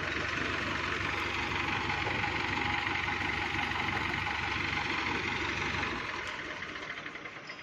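Electric arc welding: a steady hiss with a low hum under it, fading out about six seconds in.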